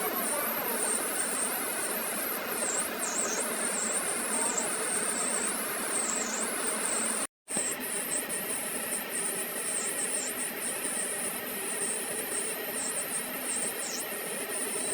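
Steady workshop noise from metal machining, with a high wavering whine over it; it drops out for a split second about seven seconds in.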